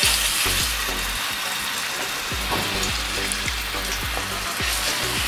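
Ground garlic sizzling steadily in hot cooking oil in a nonstick frying pan as it starts to sauté.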